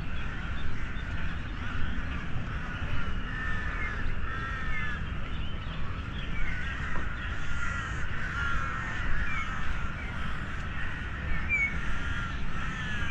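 Birds calling, many short calls repeating and overlapping, over a steady low rumble.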